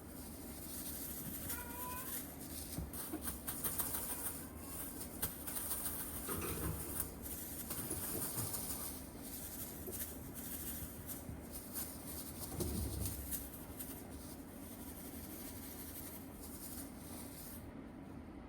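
A kitten gives one short mew about a second and a half in. Soft rustling and small clicks follow, as of the cat moving about and being handled.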